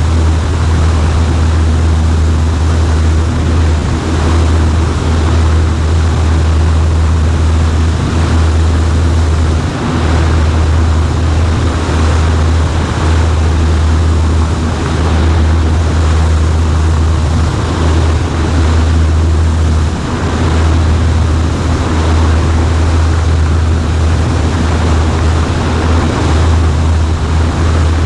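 Cessna 140A's engine and propeller droning steadily as heard inside the small cockpit, a constant low hum under a wash of wind and engine noise.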